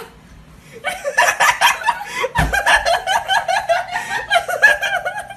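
A person laughing hard: a long run of quick, high-pitched laughs starting about a second in.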